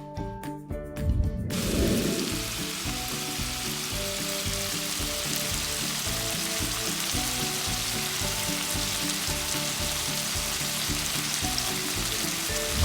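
Chicken with parsley, bell pepper, oyster sauce and a little water sizzling steadily in the pan, a frying hiss that starts about a second and a half in, just after a brief low rumble. Quiet background music plays underneath.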